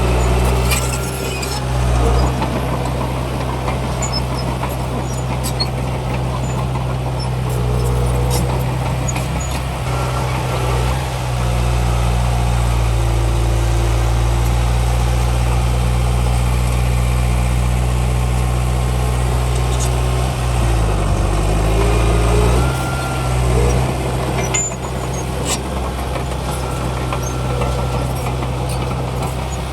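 Heavy diesel earthmoving machinery running steadily, its engine dipping and picking back up in pitch about twenty seconds in, with scattered light metallic clicks.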